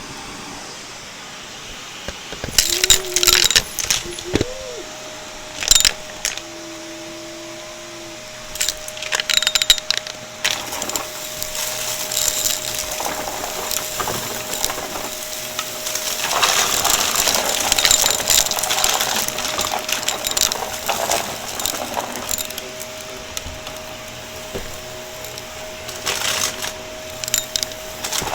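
Shark vacuum cleaner being handled: irregular clicks, clinks and rattling, with a few short squeaks in the first seconds and a faint steady hum behind.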